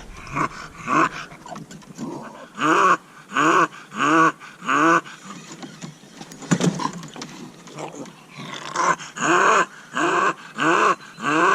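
Bulldog barking over and over with short calls that rise and fall in pitch, a few spaced apart at first and then coming in a quick, steady run near the end.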